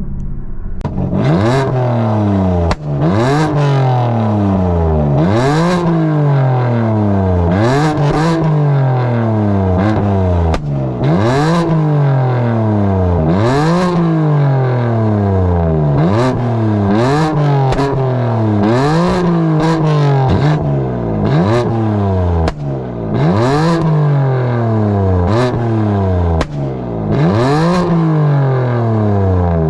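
BMW F80 M3's twin-turbo inline-six, breathing through an aftermarket downpipe and single mid pipe, being blipped again and again at standstill, one rev about every two seconds. Each rev snaps up and falls away. Sharp exhaust pops and cracks come on each lift-off from the flame tune.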